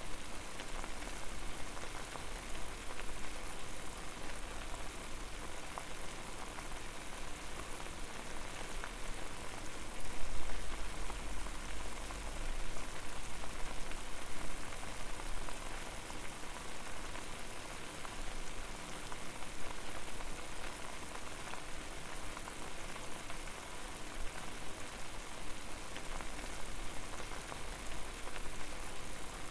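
Water boiling over a fire: a dense, steady crackle of bursting bubbles, with a low rumble that swells briefly about ten seconds in.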